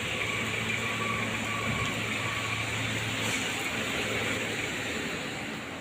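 Truck engine running steadily, under an even hiss of rain.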